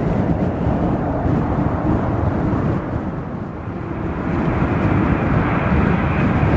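Strong wind buffeting the microphone, mixed with the rumble of an airliner's engines. About four seconds in, the noise grows louder and brighter.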